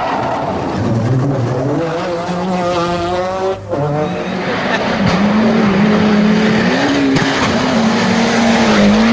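Rally car engine at full throttle. The note climbs for a couple of seconds, cuts out briefly about halfway through at a gear change or lift, then holds high, with tyre and skid noise over it.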